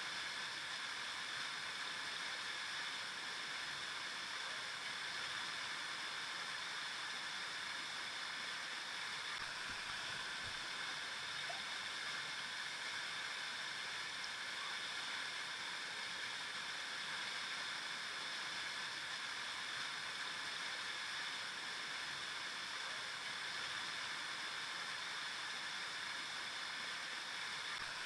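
River water flowing steadily over rocks, an even rushing with a light gurgle.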